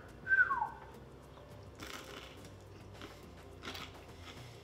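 A person chewing a bite of crusty baked bread topped with tuna tartare, with a few faint crunches of the crust. Near the start there is a short high tone sliding downward.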